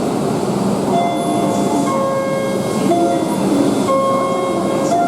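Steady rushing noise of a Tohoku Shinkansen train at the platform. From about a second in, a slow melody of held notes, changing about once a second, plays over it.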